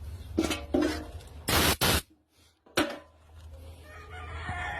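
A short, loud hiss of compressed air from a blow gun, about a second and a half in, blasting rust out of a clogged brake bleeder screw. A second brief burst follows about a second later.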